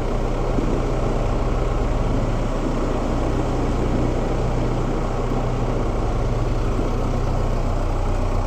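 A farm tractor's diesel engine running steadily.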